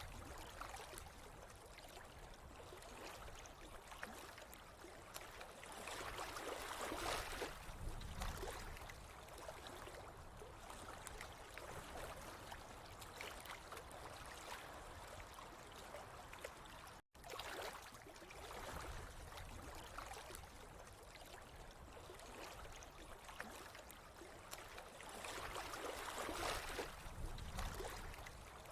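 Faint, steady trickling and gurgling of running water, swelling a little twice. It cuts out for an instant about two-thirds of the way through.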